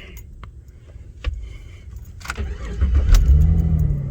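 Keys jangling and ignition clicking, then the Jeep Liberty's 3.7-litre V6 cranks and starts a little over two seconds in, revs briefly and settles toward idle. This is the first start after a cam/crank relearn.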